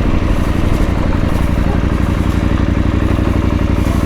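Motorcycle engine running steadily at low revs, with no change in pitch.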